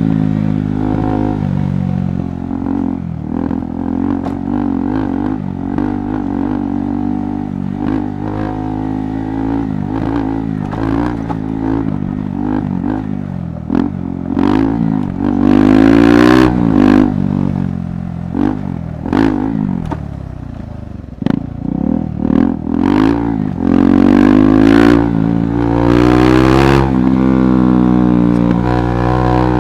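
KTM 390 Adventure Rally's single-cylinder engine being ridden off-road, its revs rising and falling with the throttle, with sharp knocks and clatter from the rough trail. It eases off about two-thirds of the way in, then pulls harder again near the end.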